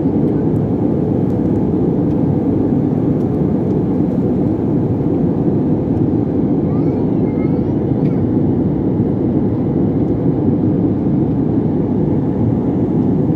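Steady aircraft noise: a low, even rumble that holds unchanged throughout.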